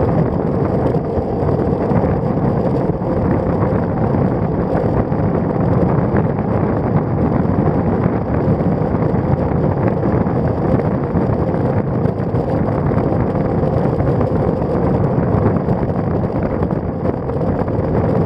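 Steady wind noise on a bicycle-mounted Shimano CM-2000 action camera's microphone as the road bike rides along, a continuous low rushing without breaks.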